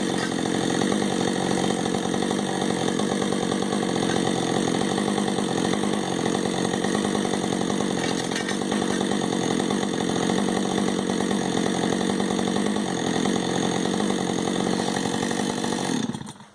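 Chainsaw running at full throttle, cutting steadily through the trunk of a whitebeam tree being felled, then cutting off near the end.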